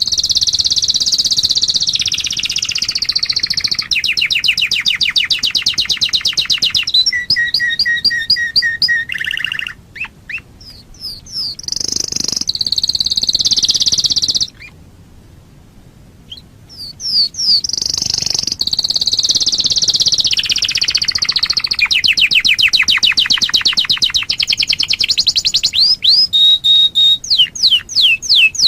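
Domestic canary singing long phrases of fast trills and rolls, with a short pause about halfway through.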